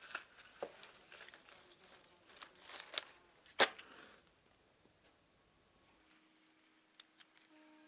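Scattered light clicks and knocks, with one sharp knock about three and a half seconds in, then a near-quiet stretch with a faint steady hum and two small clicks near the end.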